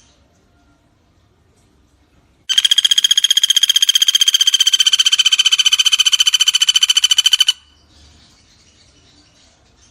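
Common flameback woodpecker (pelatuk bawang) giving one long, rapid rattling trill of about five seconds, starting about two and a half seconds in and stopping abruptly.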